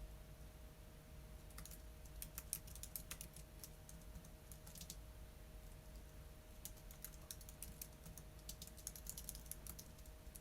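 Typing on a computer keyboard: quick runs of light keystrokes in two stretches, with a pause of about two seconds between them, over a faint steady hum.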